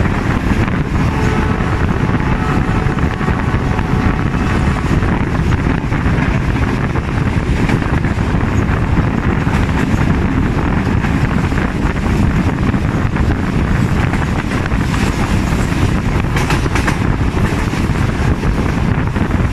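Passenger train running at speed, heard from an open coach door or window: a steady rush of wind and a low rumble of wheels on the rails, with wind on the microphone.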